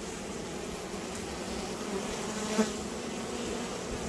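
A disturbed honeybee colony buzzing steadily in a dense mass, the bees agitated as their hive in the roof is opened up. A brief knock sounds about two and a half seconds in.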